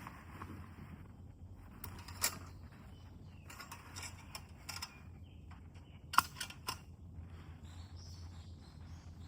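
Scattered sharp clicks and knocks over a low steady hum, the loudest one about six seconds in.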